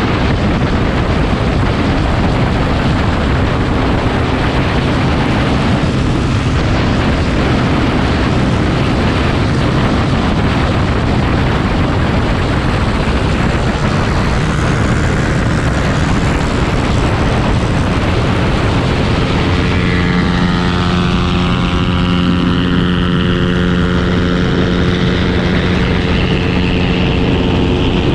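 Motorcycle engine running at speed under heavy wind noise on the microphone. About twenty seconds in, a steady engine note rises clearly above the rush.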